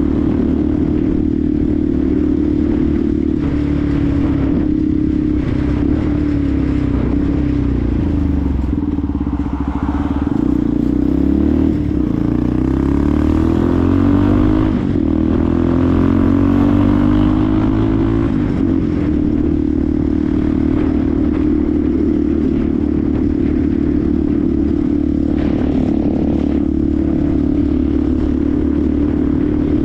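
Benelli TNT 125's single-cylinder four-stroke engine running on the move, mostly at steady revs, with the pitch rising and falling through gear changes between about ten and eighteen seconds in.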